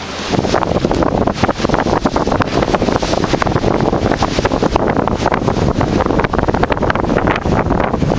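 Wind buffeting the microphone on a sailboat under way: a loud, ragged rumble of gusts that steps up suddenly just after it begins and then holds.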